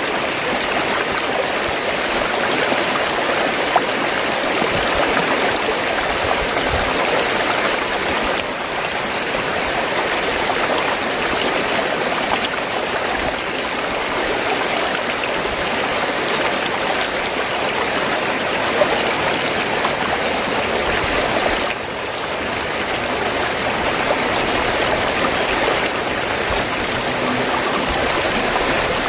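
Fast-flowing stream water rushing and gurgling over rocks in a steady, continuous noise.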